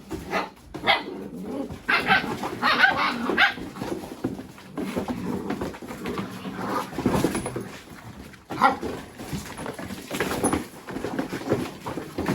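Mini Goldendoodle puppies barking and yipping in play, in repeated short bursts.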